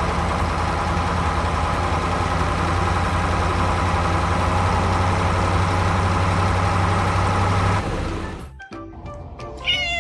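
Steady engine sound of a toy or cartoon excavator, mixed with music, which cuts off about eight seconds in. After it comes quieter music and a short, wavering high-pitched sound near the end.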